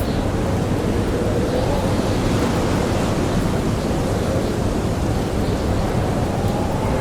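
Blizzard wind blowing in a steady, dense rush, with a faint howl that slowly wavers up and down in pitch.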